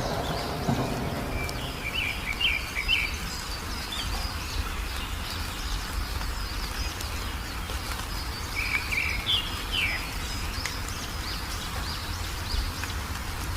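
Small birds chirping, with two short bursts of quick chirps about two seconds in and again about nine seconds in, over thin high chirping throughout and a steady low rumble.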